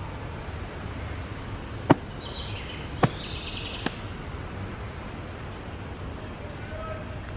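Wild birds chirping over steady outdoor background noise, with a short burst of high chirping a few seconds in. Three sharp clicks stand out at about two, three and four seconds in.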